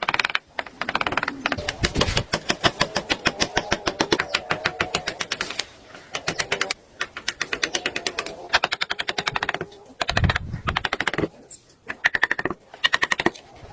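Rapid, even tapping of a carving tool on wood, about ten strikes a second in runs of a few seconds broken by short pauses.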